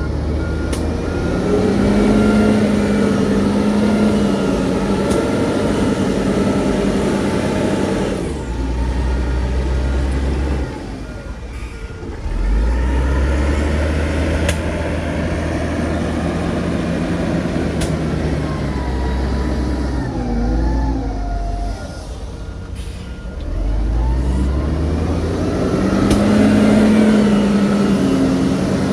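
Diesel engine of heavy earthmoving machinery working, its revs rising and dropping several times. A reversing alarm beeps at intervals, near the start, around the middle and again past the two-thirds mark.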